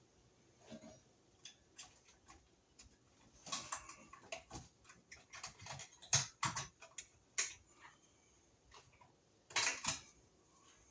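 Irregular light clicks and taps of hand work on electrical cable and a box, sparse at first, then a busy run of them in the middle and a close pair near the end.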